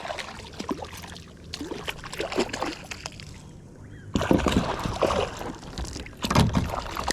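Irregular knocks, rubs and splashes around a kayak while a hooked bluefish is fought and reeled in, loudest about four seconds in and again a little after six seconds.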